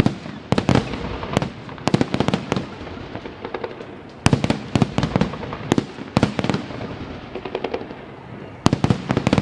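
Fireworks salute going off: loud bangs and sharp crackling reports in rapid clusters, several a second, over a continuous crackle.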